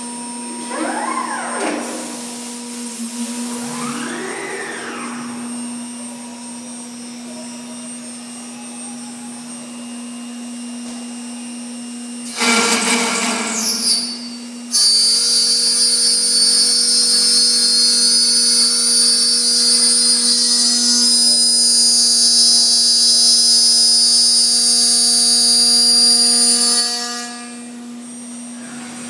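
CNC machining centre running a cycle over a steady hum. In the first few seconds its axis drives whine up and down in pitch as they move. About 12 seconds in there is a loud noisy burst lasting about two seconds; from about 15 seconds a loud, high-pitched spindle whine runs steadily for about twelve seconds, then stops.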